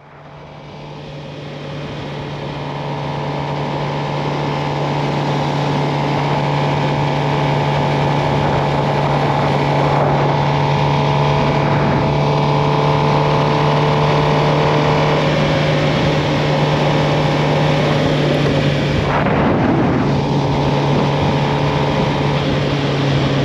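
Suzuki GSX-R750's inline-four engine running at a steady cruising speed under way, fading in over the first few seconds, with a short break in its steady note near the end.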